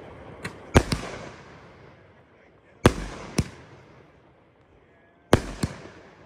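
500-gram consumer fireworks cake firing its shots: three shots about two and a half seconds apart. Each is a pair of sharp bangs a fraction of a second apart, followed by a fading tail.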